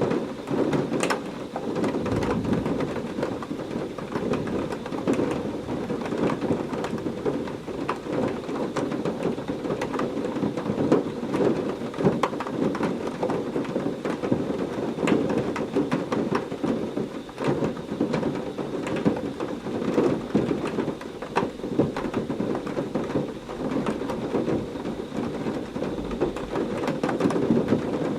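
Heavy rain falling steadily, with many individual drops pattering on a surface. Low thunder rumbles briefly about two seconds in and again near the end.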